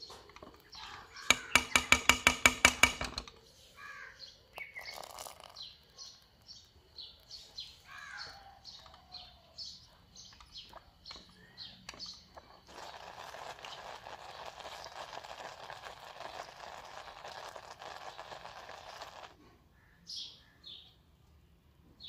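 Birds chirping in short repeated calls, with a loud, rapidly pulsed chattering call about a second in. A steady hiss runs for about six seconds in the second half and stops abruptly.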